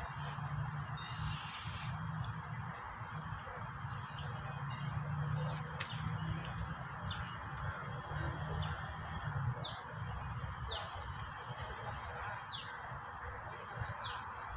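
A small bird calling with short, high, falling notes repeated about once a second from about halfway on, over a steady high-pitched insect drone and a steady low hum.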